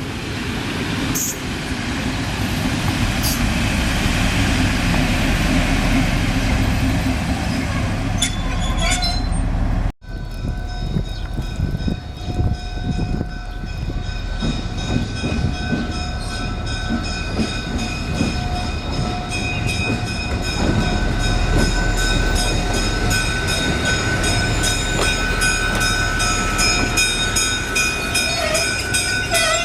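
A train moving on rails, with heavy low rumble and rail noise. After a cut about ten seconds in, a long steady high tone with several overtones sounds over the running noise.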